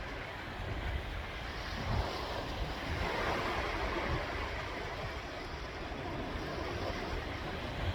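Sea waves washing in, with one wave swelling up about three seconds in and then easing off. Wind rumbles on the microphone underneath.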